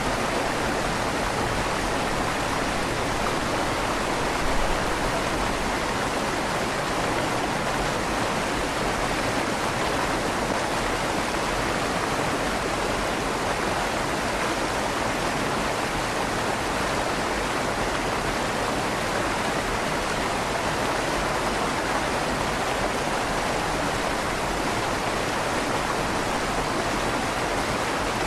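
River water flowing steadily under a stone bridge, a constant rushing and burbling with a slight echo off the stone arch.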